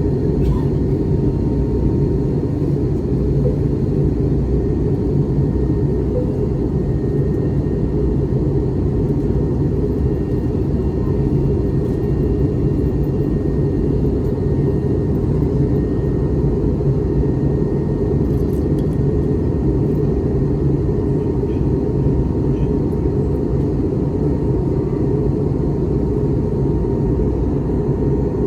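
Steady cabin noise of an Airbus A321neo in flight: a constant deep rumble of engines and airflow, with a faint steady hum over it.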